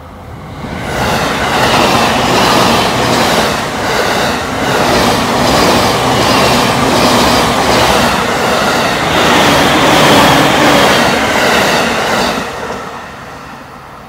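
JR East suburban electric commuter train with green-and-orange striped stainless cars passing close by at speed: a loud rush of wheels on rail with a regular clickety-clack of wheels over rail joints. It builds about a second in and fades away near the end.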